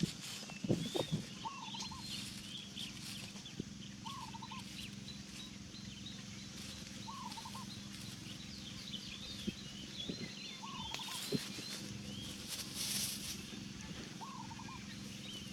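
Outdoor bird sounds: one short warbling call repeated about every three seconds over a busy background of high chirps, with a steady low hum underneath. There are a few low thumps about a second in.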